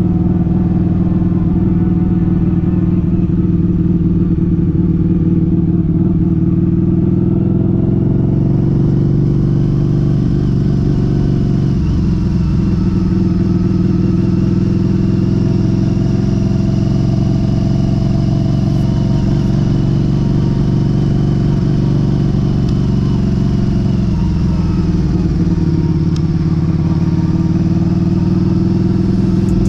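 Harley-Davidson V-Rod's liquid-cooled V-twin running as the bike is ridden at low town speed. The engine note dips and rises twice as the rider slows and picks up again.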